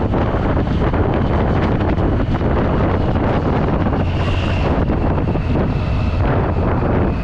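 Triumph Street Triple 675 inline-three engine with its stock exhaust, running steadily while the bike is ridden, under heavy wind noise on the microphone.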